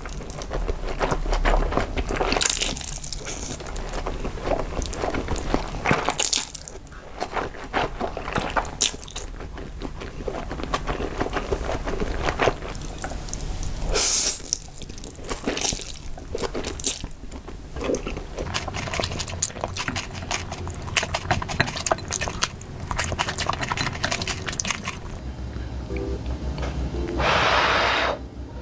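Close-miked eating of noodles: wet chewing and slurping with many small mouth clicks, and a longer, louder stretch of noise near the end.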